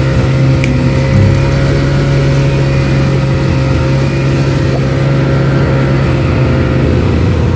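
A motor vehicle's engine running at a steady, even speed, loud and unchanging.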